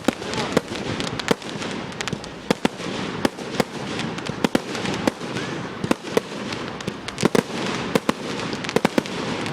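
Fireworks display going off: an irregular, rapid string of sharp bangs and pops, about three a second, over a continuous crackling haze.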